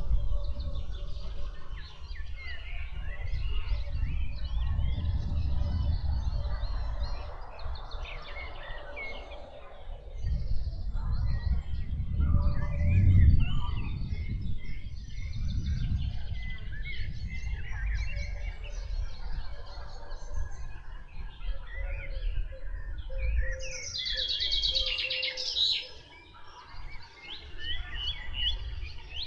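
Several wild birds singing and calling in the woods, with a louder, higher song phrase about three-quarters of the way through, over a low rumble that swells and fades.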